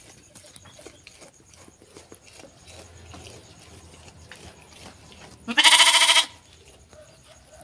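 A sheep bleats once, a loud wavering call lasting under a second, about three-quarters of the way in. Faint clicks and rustling come before it.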